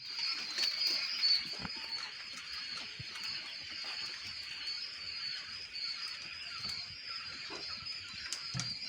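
Many young quail chicks peeping together in a continuous, high-pitched chorus.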